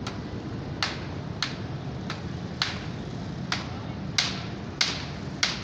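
Repeated sharp tool strikes from manual construction work, about eight in all, coming roughly every half second to a second over a steady low rumble.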